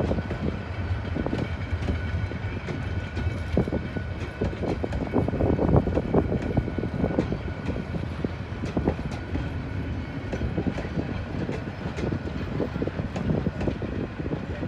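Passenger train coaches rolling past close by: a steady rumble of steel wheels on the rails with irregular clicks and clatter, and a thin, steady high whine above it.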